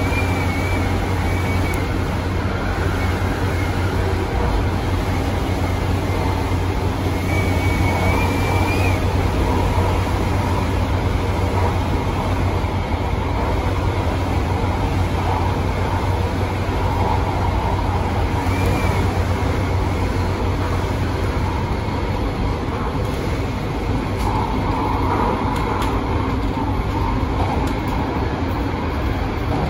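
MTR Tung Chung line A-train electric multiple unit running at steady speed: continuous rail and running noise with a low hum. A faint, wavering high whine comes and goes in the first several seconds.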